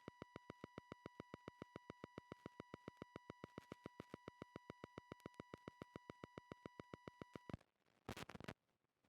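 Faint steady electronic tone with an even, rapid clicking of about seven clicks a second, cutting off suddenly about seven and a half seconds in. A brief burst of noise follows. It is a recording glitch from a faulty sound setup.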